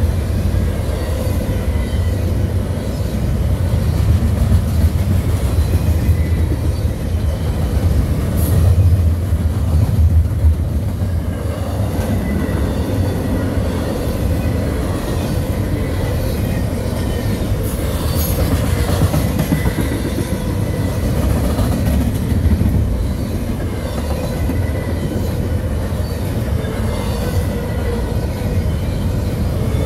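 Double-stack intermodal well cars rolling steadily past: a continuous low rumble of steel wheels on rail, with a faint thin wheel squeal and two brief high screeches, about a third of the way in and again past halfway.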